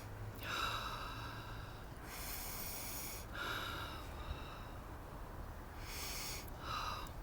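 A person sniffing apple blossoms, drawing several long breaths in through the nose, about five in all, with short pauses between them.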